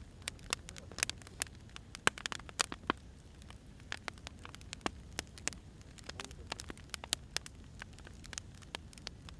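Wood fire burning, crackling and popping irregularly with several sharp snaps a second over a low steady rumble of flame.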